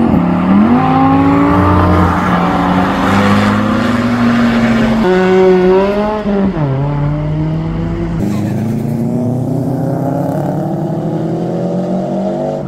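Audi R8 engine accelerating hard past on the road. The revs climb and hold, rise again, then drop sharply about six seconds in at an upshift, and a lower engine note builds slowly toward the end.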